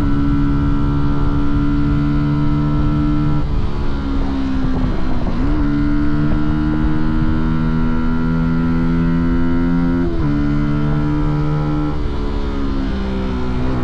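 Fantic Caballero 125's single-cylinder four-stroke engine running under way, its exhaust note steady and slowly rising in pitch. The revs dip and recover about four to five seconds in, and the pitch drops suddenly about ten seconds in, as at a gear change.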